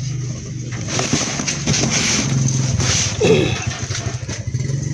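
Electric starter motor of a Fuso Fighter 6D14 truck running on test after a starter fault, a steady whirring hum.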